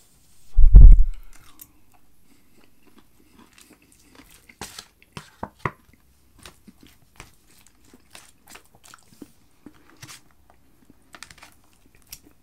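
A person chewing and crunching battered chicken and waffle fries, with short scattered crunches and clicks of the fork in the tray. A loud low thump comes about a second in and is the loudest sound.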